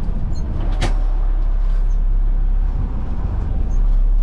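Front-load garbage truck's diesel engine and road noise heard steadily from inside the cab while driving, with a single sharp click a little under a second in.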